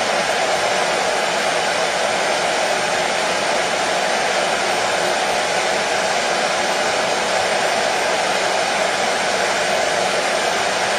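Hair dryer running steadily: an even, unbroken rush of blown air and motor, with no change in pitch or strength.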